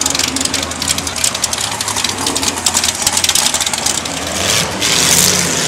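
Car engines idling at a drag-race start line, a steady low rumble, with one engine note rising a little near the end.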